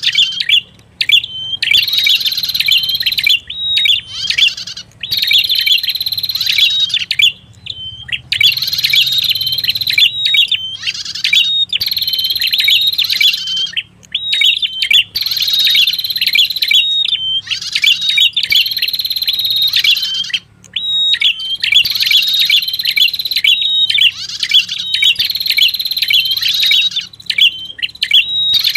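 Prenjak kepala merah (red-headed prenjak) lure-call recording: a high, rapid chattering song phrase repeated over and over with short breaks, about one phrase every two seconds.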